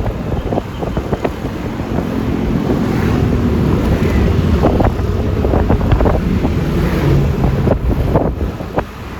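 Wind buffeting the microphone on a moving motor scooter, a Yamaha Lexi LX 155 with a single-cylinder 155 cc engine, its engine and road noise running underneath. The rumble builds over the first few seconds and dips briefly near the end.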